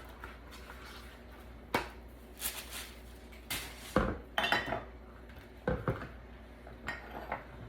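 Kitchen dishes and utensils clinking and knocking against each other and the counter: a dozen or so separate, irregular knocks and clinks.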